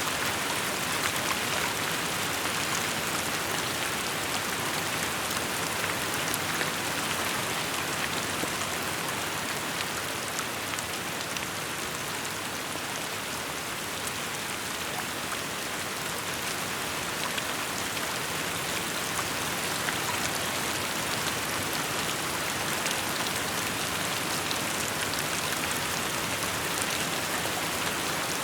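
Steady rain falling on surfaces, a dense, even hiss of drops with small individual drop ticks scattered through it.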